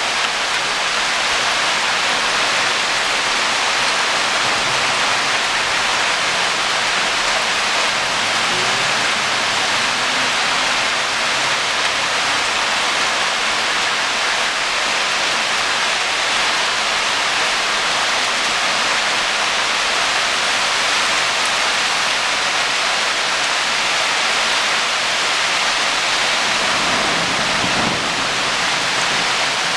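Heavy rain mixed with hail pouring down steadily, a dense even hiss of falling water and ice.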